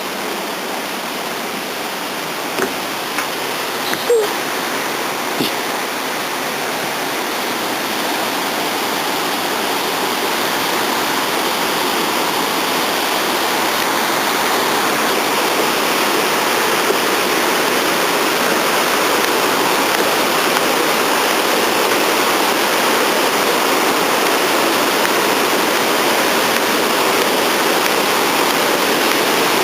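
Waterfall: water falling in a steady rush that grows louder over roughly the first ten seconds, with a few short knocks in the first seconds.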